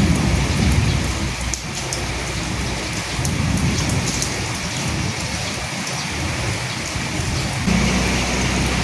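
Steady rain falling, an even hiss of drops, with low rumbles swelling and fading near the start and again about three seconds in. Near the end a steady low hum comes in under the rain.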